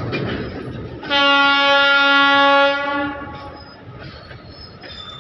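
Indian Railways goods train wagons rolling past with steady wheel rumble and clatter. About a second in, a train horn sounds one steady blast of about two seconds, the loudest sound.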